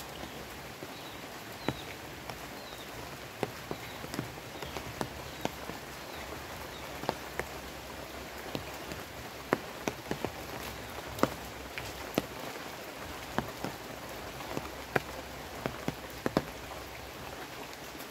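Rain falling on leaves and wet ground: a steady hiss with many sharp drops tapping at irregular intervals.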